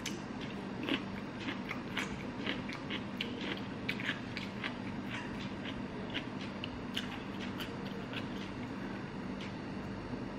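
Close-up crunchy chewing of a bite of raw cucumber: many irregular crisp crunches, about two or three a second, thinning out after about seven seconds. A steady low hum runs underneath.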